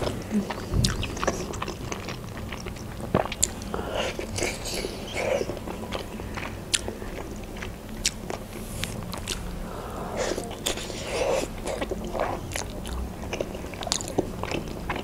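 Close-up eating sounds of a person biting into and chewing a Georgian khinkali dumpling with meat filling: steady chewing with many small mouth clicks.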